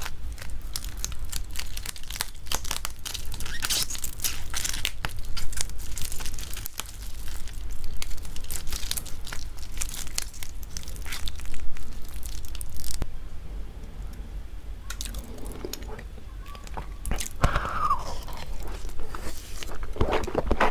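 Close-miked crunching, biting and wet chewing of raw marinated crab, its shell cracking between the teeth. The crunches come in quick clusters with a short lull about two-thirds of the way through.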